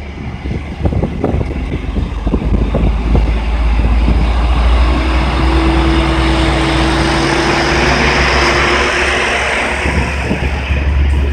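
Passenger train coaches rolling past close by: a deep rumble of wheels on rail with irregular clattering knocks, growing louder over the first few seconds. A steady hum joins from about the middle, and a rising hiss comes near the end.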